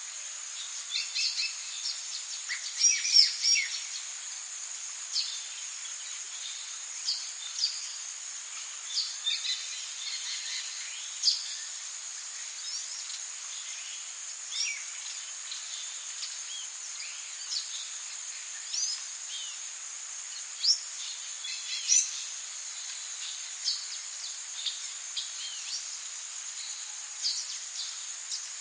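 Rainforest ambience: a steady high-pitched drone of insects with many short bird chirps and whistles scattered through it, a cluster of louder calls about three seconds in and single louder ones about eleven and twenty-one seconds in.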